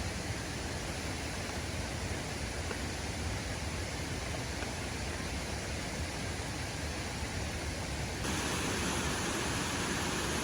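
Waterfall rushing steadily, a constant full hiss of falling water. About eight seconds in it abruptly turns louder and brighter.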